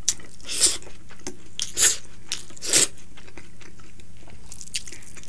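Close-miked chewing of a mouthful of food eaten by hand: wet smacks and crunches, four loud ones in the first three seconds, then softer chewing.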